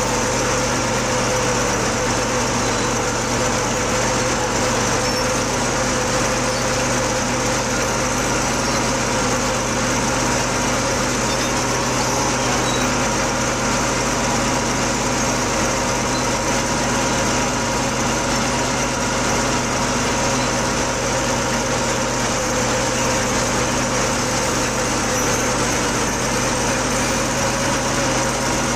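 Caterpillar D8K bulldozer's diesel engine running steadily, with no change in speed.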